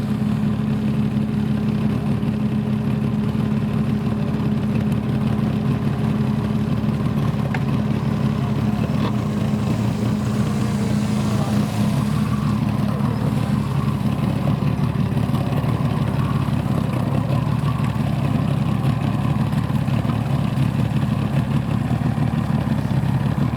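Motorboat engine running steadily at an even speed, a continuous low drone.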